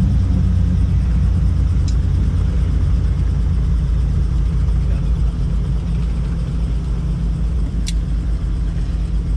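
Helicopter engine and rotor noise, a steady low rumble with a hum of even tones, and two brief faint clicks about two seconds in and near the end.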